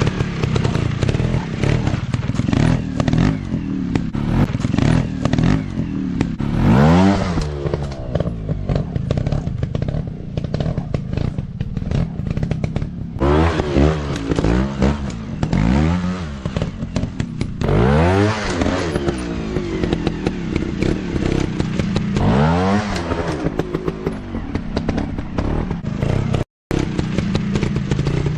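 Small dirt bike engines running and revving in repeated bursts, the pitch climbing and falling back several times, with frequent clattering knocks throughout. The sound cuts out briefly near the end.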